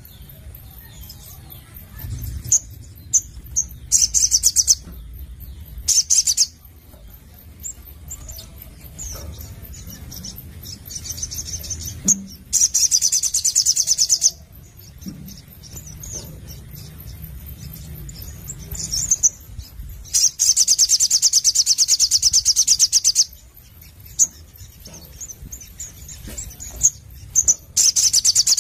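A sogon, a small sunbird-family songbird, singing loudly in very fast, high trills. The bursts run from under a second to about three seconds, the longest past the middle, with short sharp chips between them. A faint low hum lies underneath.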